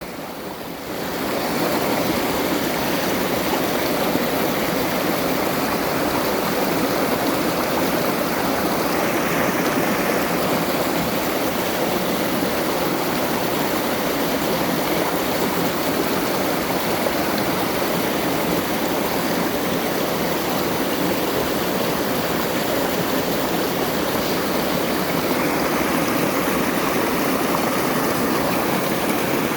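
Mountain valley stream flowing, a steady rush of running water that comes up to full level within the first second.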